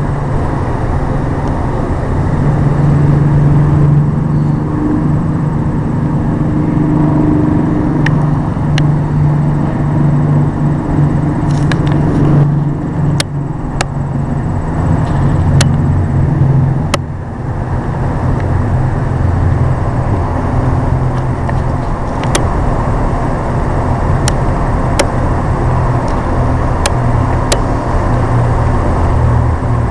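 Steady low engine rumble, like a motor vehicle running close by, with scattered sharp clicks.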